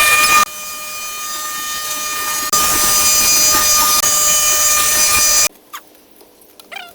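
Loud, steady machine noise with a high whine, briefly dropping in level then returning, that cuts off suddenly about five and a half seconds in, leaving a quiet stretch with a few faint chirps.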